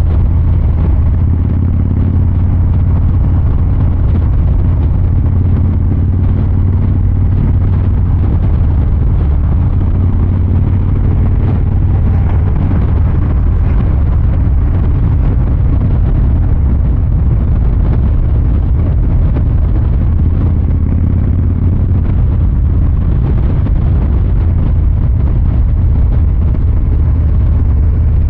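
Exhaust of a 2023 Harley-Davidson Fat Boy 114's Milwaukee-Eight 114 V-twin running steadily while riding, a deep, even low rumble.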